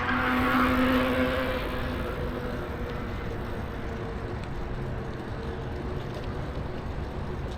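A passing motor vehicle hums, swells and fades away within the first couple of seconds. Steady wind rumble on the microphone of a moving bicycle runs throughout.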